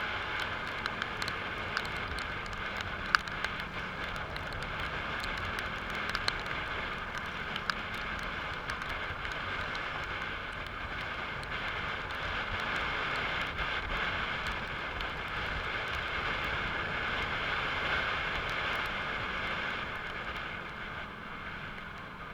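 Steady rain falling, an even hiss with scattered sharp ticks of drops hitting things, fading near the end.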